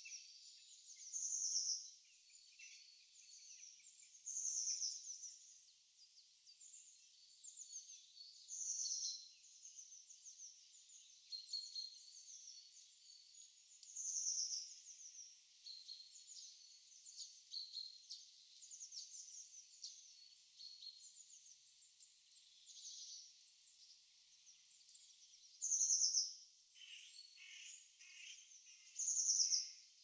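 Songbirds singing and chirping: a louder short song phrase recurs every few seconds over softer, busier twittering and chirps.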